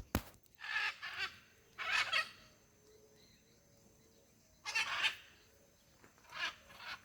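Birds calling: several short bouts of harsh, raspy calls, with a quiet stretch of about two seconds in the middle.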